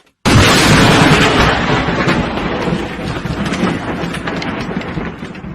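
A thunderclap from a close lightning strike: a sudden loud crack about a quarter second in, then a crackling rumble that slowly fades.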